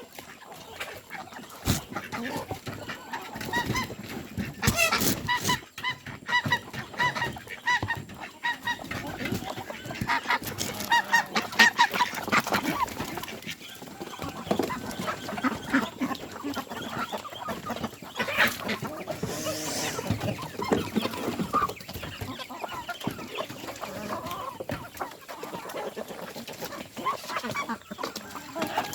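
Chickens clucking repeatedly, with short calls coming in bunches, mixed with many short taps.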